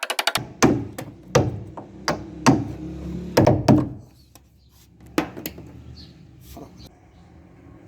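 A series of about nine irregular knocks and thunks on wood in the first seven seconds, over a low steady hum.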